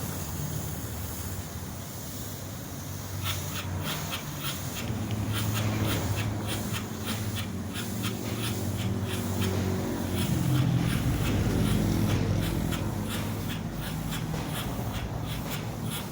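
Polyurea spraying equipment running with a steady low hum. From about three seconds in, a rapid, uneven train of short hissing spurts joins it.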